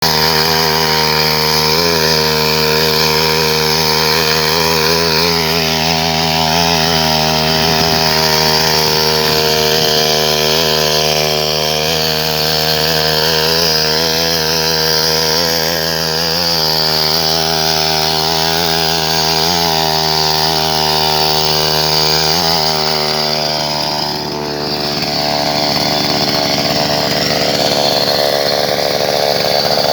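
Two-stroke 63cc petrol engine of a mini tiller running at high revs, a continuous buzzing drone, briefly dipping in level about 24 seconds in.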